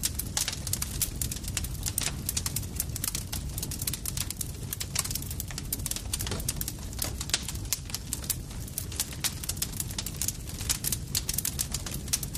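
Campfire crackling: many irregular pops and snaps, several a second, over a low steady rumble of burning wood.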